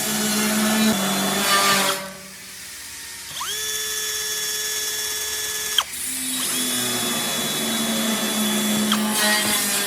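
Electric drill run in repeated trigger pulls: the motor whines up to speed, holds a steady pitch and cuts off, with harsher stretches where the bit is biting into material, near the start and again near the end.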